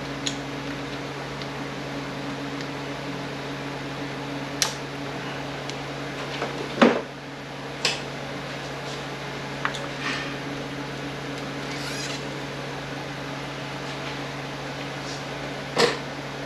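Steady machine hum with scattered sharp clicks and knocks of metal parts and tools being handled during an automatic transmission teardown. The loudest knock comes about seven seconds in and another near the end.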